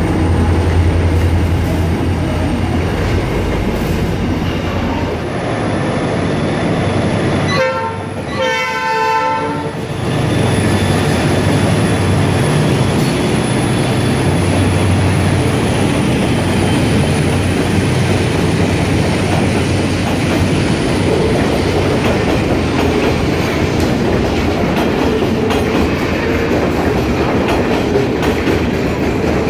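Container freight train passing close by: a steady rumble and clatter of wagons over the rails. About eight seconds in, a train horn sounds twice, one short blast then a longer one. A Pacific National 8100-class diesel locomotive then goes by.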